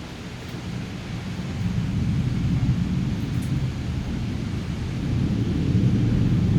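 Thunder rumbling low and growing louder over several seconds, over the steady hiss of heavy rain.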